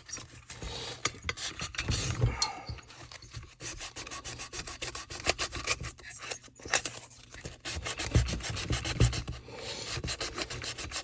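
Hand sanding with 220-grit sandpaper: quick, uneven back-and-forth rubbing strokes.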